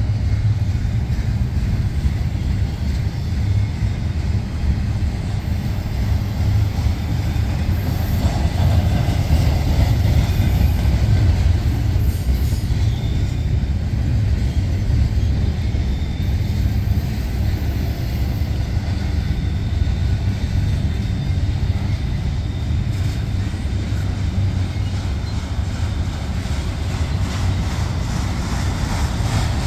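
Double-stack intermodal container well cars of a freight train rolling past. Their wheels on the rails make a steady, unbroken low rumble.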